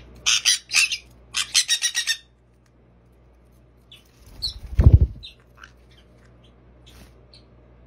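Conures squawking in a quick run of short, harsh calls for about two seconds. Then a sun conure beats its wings, a loud low fluttering whoosh about four to five seconds in.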